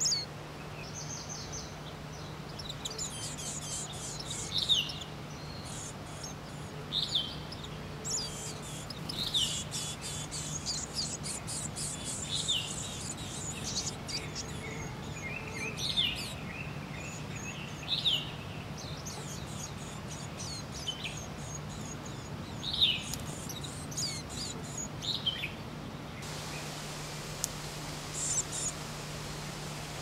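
Small birds calling: short high chirps that slide downward, repeated every second or two, over a dry rapid ticking high up that stops a few seconds before the end. A steady low hum runs underneath.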